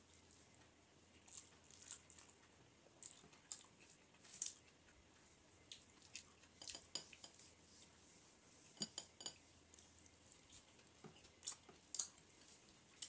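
Close-mic eating sounds: a person chewing mouthfuls of rice and curry, with many short wet smacks and clicks, and fingers now and then mixing rice on a metal plate.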